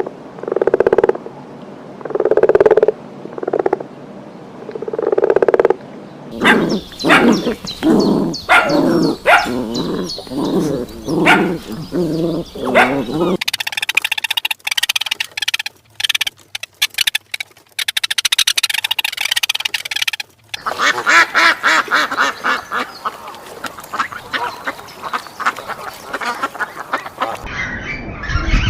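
A run of different animal calls, one recording after another, each changing abruptly to the next every several seconds: first repeated low calls, then rapid pitched cries, then high clicks and chirps, then a dense high chorus.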